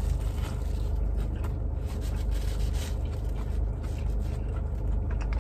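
A person biting into and chewing an In-N-Out Double-Double burger close to the microphone, with scattered small rustles of the paper wrapper, over a steady low hum.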